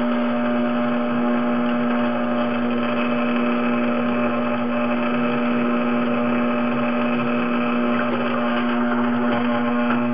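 Tormek water-cooled sharpening machine running. Its motor hums steadily while a steel chisel is pushed across the turning grindstone, grinding the 30-degree bevel at the tip.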